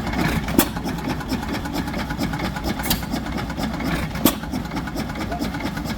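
An engine running steadily at idle, with a few sharp pops at uneven intervals.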